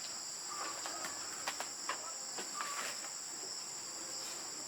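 Insects chirring in a steady, high-pitched drone, with a few sharp clicks near the middle.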